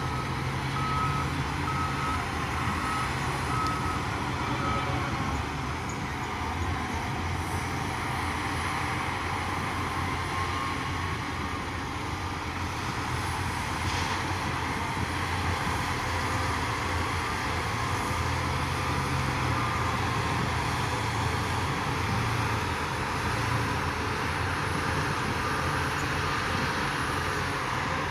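Heavy diesel earthmoving machinery running steadily, with a reversing alarm beeping at an even pace for about the first five seconds before the engine carries on alone.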